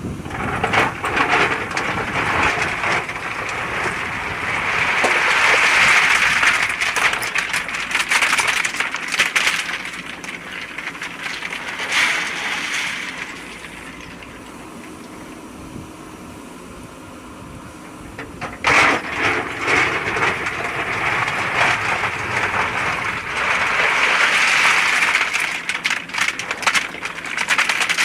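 JCB 3DX backhoe loader at work: a dense crackling, clattering noise of earth and stones, in two long surges with a quieter lull between them.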